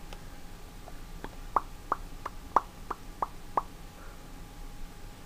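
A pet making a quick series of eight short popping sounds, about three a second.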